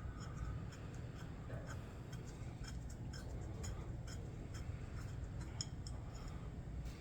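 Faint, irregular light clicks of a small socket wrench and metal carburetor parts being handled as a brass jet is unscrewed from a Ford 8N carburetor, over a steady low hum.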